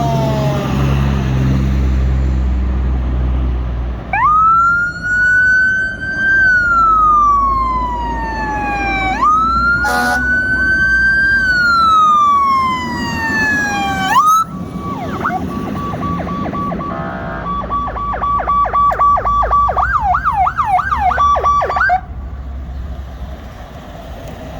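Fire truck siren as the apparatus pulls away: two slow wail cycles, each rising quickly and falling away slowly, then a switch to a fast warbling yelp that cuts off abruptly a couple of seconds before the end, with the truck's engine rumbling underneath at the start.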